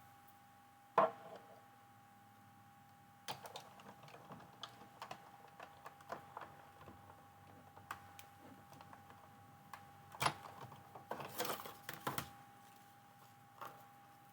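Scattered light clicks and taps of small metal cutting dies and cardstock being handled and set in place on a craft table, with a sharper knock about a second in and a busier flurry of handling noise near the end.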